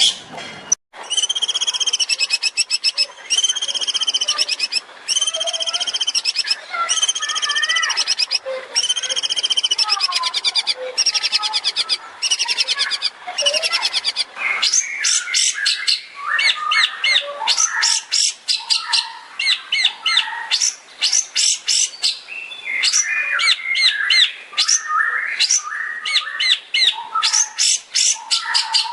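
Long-tailed shrike (cendet) singing: a string of six repeated arched, whistled notes, about one every second and a half, then a fast, varied run of short chattering and trilling phrases.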